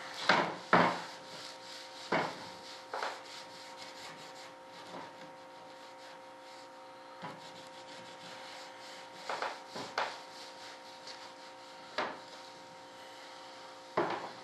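Scattered knocks and short scrapes of parts and tools being handled on a workbench, the two loudest about half a second apart near the start, over a steady background hum.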